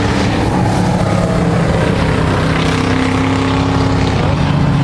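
Racing trucks' engines running loud and steady, several at once at different pitches that rise and fall as they circle the track.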